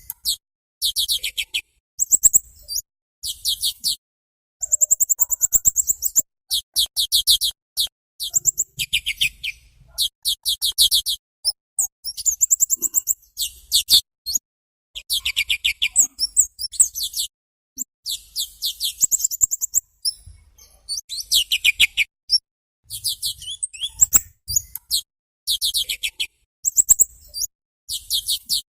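Birdsong from a masteran tutoring recording: short bursts of rapid, high-pitched chattering notes, repeated every second or so with brief pauses between phrases.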